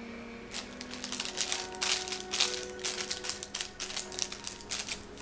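Crinkly plastic wrapper of a honey bun being handled and torn open: rapid, irregular crackling clicks starting about half a second in.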